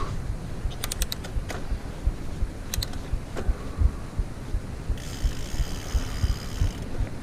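Mountain bike riding over rough trail: constant bumps and rattles, short bursts of mechanical clicking about a second in and near three seconds, and a steady buzzing from about five seconds in lasting nearly two seconds.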